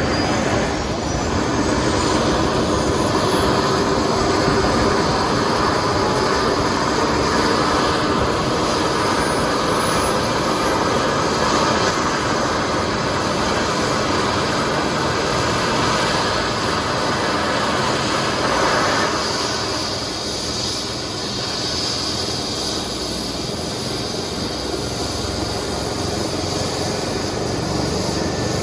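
Airbus H135 twin-turbine helicopter running close by: a steady rotor and turbine noise with a thin high whine that climbs in pitch throughout. The sound eases slightly about two-thirds of the way through.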